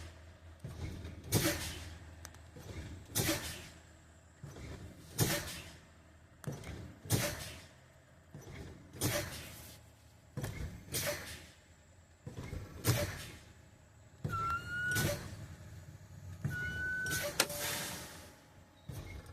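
Truck air brakes being fanned: the service brake is applied and released about once every two seconds, and each release lets out a short hiss of exhausting air, bleeding the system pressure down toward the point where the spring brakes set. Two brief whistling tones sound near the end.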